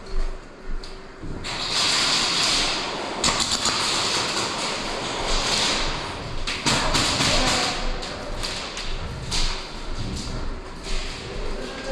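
Airsoft guns firing in long rapid bursts, a dense crackle of shots for several seconds from about a second and a half in, followed by scattered taps and thuds.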